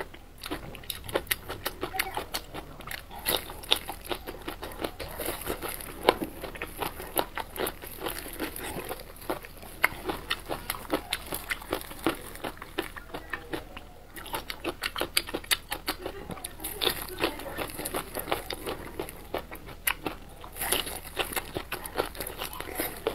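Close-miked wet chewing and mouth smacking of blistered green peppers in chili oil, with many quick irregular clicks. There is a short lull a little past halfway, then fresh bites near the end.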